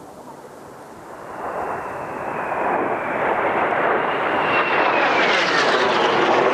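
Kawasaki T-4 jet trainer flypast: the jet noise swells steadily as it approaches, and its high turbine whine drops in pitch about four to six seconds in as it passes.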